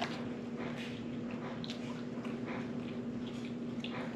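Close-up chewing and mouth sounds of people eating: irregular wet clicks, smacks and squishes. A steady low hum runs underneath.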